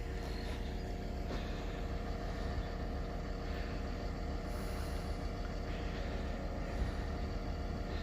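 A vehicle's engine running steadily with a low rumble.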